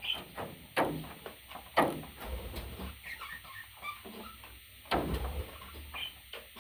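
Pet parrot making short, scattered chirps, mixed with a few sharp taps or knocks.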